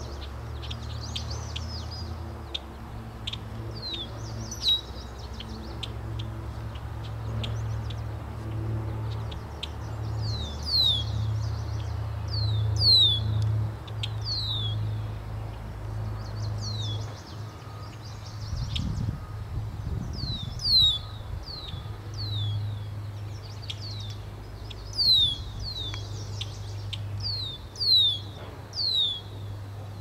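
A small bird giving short, high chirps that slide downward, singly and in quick runs of two or three, with faster ticking chips in the first few seconds. A steady low hum runs underneath, and a brief low rumble comes through about two-thirds of the way in.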